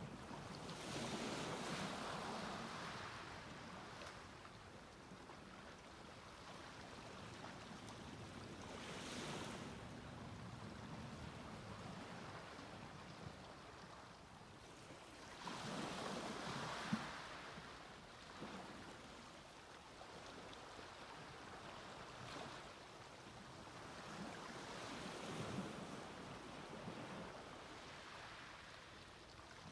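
Small sea waves breaking and washing up a beach: about five surges of surf in half a minute, each swelling and falling away, with a soft steady wash between them.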